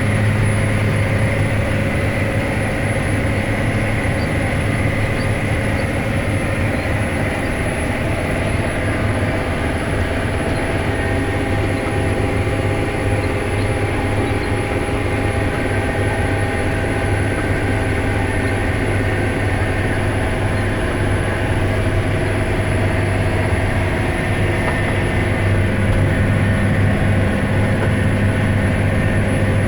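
John Deere 9530 four-wheel-drive tractor's diesel engine running steadily under load, pulling a high-speed disc through a field at about 13 mph, with a deep, even hum.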